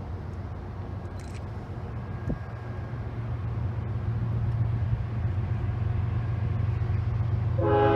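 Diesel freight locomotives approaching: a low, steady engine rumble that grows louder. Near the end a Nathan K5HL five-chime air horn starts to sound, several tones together.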